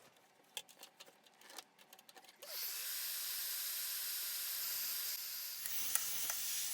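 A few light clicks, then a heat gun switches on about two and a half seconds in and runs with a steady hiss of blown hot air, heating plastic light-diffuser panels so they can be bent.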